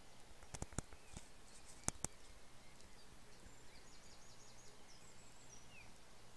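Quiet outdoor ambience with a few sharp clicks in the first two seconds, then a small bird giving a quick run of about eight high, thin notes about four seconds in.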